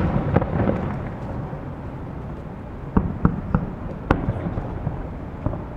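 Aerial firework shells bursting: a crackling rumble at the start that fades within about a second, then a quick run of four sharp bangs about three to four seconds in, and another near the end.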